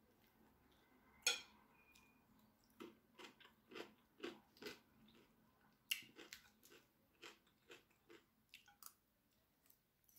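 Close-miked chewing of fork-fed cucumber and lettuce salad, heard as runs of short, separate bites. A sharp clink of a metal fork on a ceramic plate comes about a second in, with a brief ring, and another comes near six seconds.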